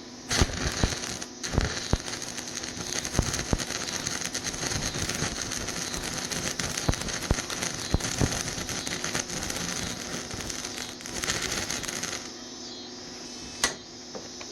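Stick-welding arc on rusty steel pipe, crackling and spitting with sharp pops as a 3/32-inch rod burns at about 75 amps. The arc strikes just after the start, breaks off briefly about a second in, then burns steadily until about twelve seconds in, with one sharp pop near the end.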